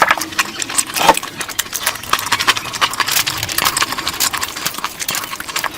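Close-up wet eating sounds: a rapid, irregular run of chewing and lip-smacking clicks from someone eating curry.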